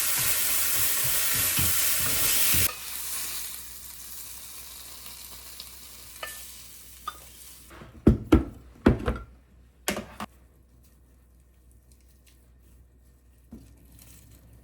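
Food sizzling and frying in a hot pan, the loud sizzle cutting off suddenly about three seconds in and a fainter hiss dying away after it. A few sharp knocks and clinks, like utensils or dishes being handled, come a little past the middle.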